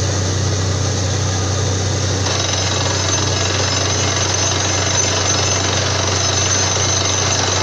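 Borewell drilling rig running: rapid, steady hammering over a deep engine drone, with a hiss that grows louder about two seconds in.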